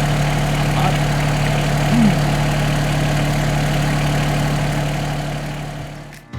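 Engine idling steadily, a low even hum, fading out near the end.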